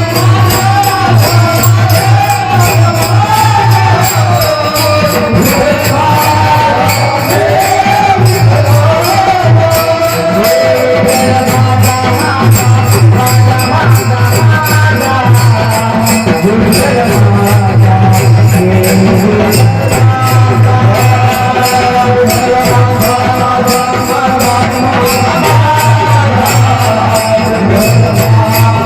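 Marathi kirtan: a singer's voice carrying a devotional melody over steady hand-percussion accompaniment.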